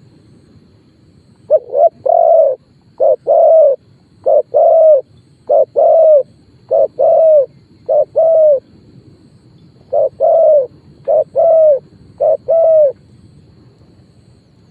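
Spotted dove cooing: a run of loud coos in short-then-long pairs, each longer note falling slightly at its end, with a short break near the middle.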